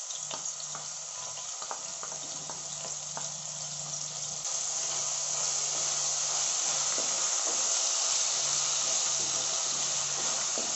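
Ginger-garlic paste sizzling in hot oil in a kadai while a wooden spatula stirs it, with light crackling in the first few seconds. The sizzle grows a little louder about four seconds in.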